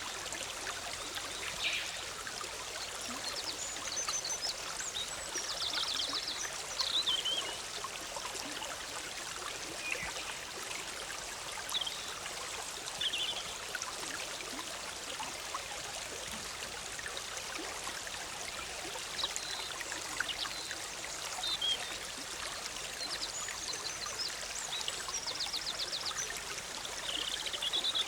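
Forest stream babbling and trickling steadily over rocks, with small birds calling now and then: short high chirps and a rapid trill about six seconds in and again near the end.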